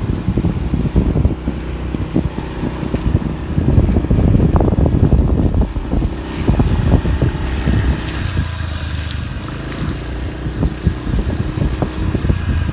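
Honda C70-type single-cylinder engine enlarged to 180cc running, with heavy wind buffeting on the microphone.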